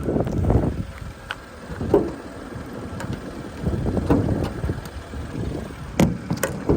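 Wind buffeting the microphone in uneven gusts, with a few sharp clicks and knocks, the loudest pair about six seconds in.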